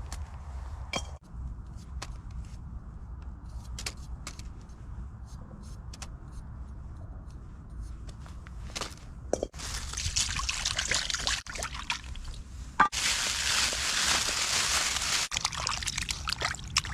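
Liquid pouring or running in two spells of about three and two seconds, starting about halfway through, with scattered clicks and knocks of handling over a low steady rumble.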